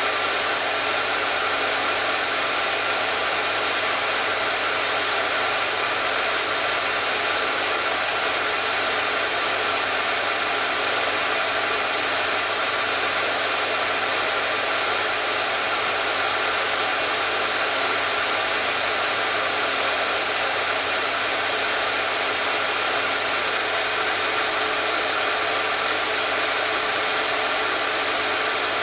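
Electric hair dryer running steadily: an even rush of blown air over a low motor hum, unchanging throughout.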